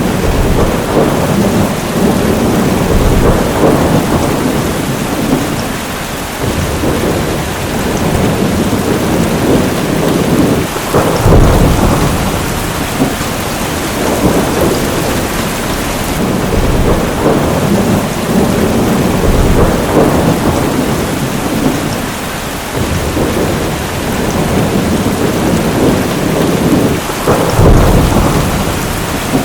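Heavy rain pouring steadily with rolling thunder, the low rumbles swelling and fading every few seconds, strongest about eleven seconds in and again near the end.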